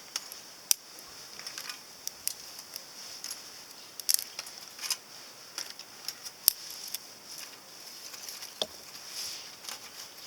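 Small kindling fire of paper and pine cones crackling and popping irregularly over a steady hiss inside a compact titanium fire grill.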